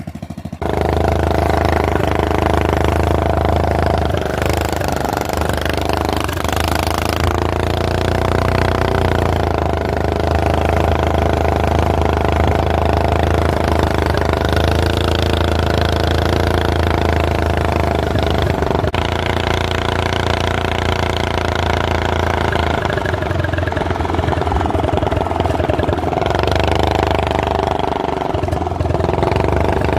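Go-kart's Predator single-cylinder engine running while riding, starting about half a second in, its pitch rising and falling gently with the throttle.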